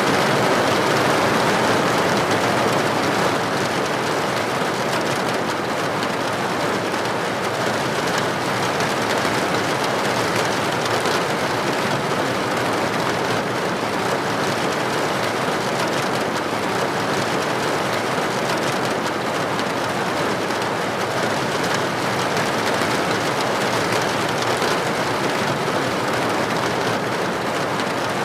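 Steady rain falling, an even hiss that is a little louder in the first few seconds.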